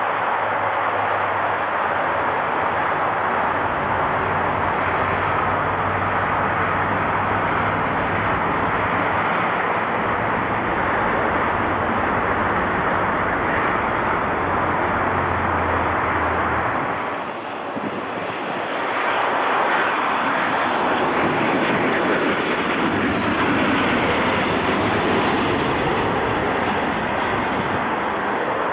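Jet airliner engines running loud and steady. A little past halfway the level dips briefly, then a high, wavering whine from the engines comes up over the rush.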